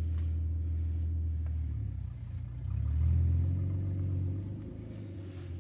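1998 Audi A4 2.8 quattro's V6 engine idling with a loud exhaust note, briefly revved and settling back about three seconds in. The loudness comes from an exhaust leak toward the front of the engine.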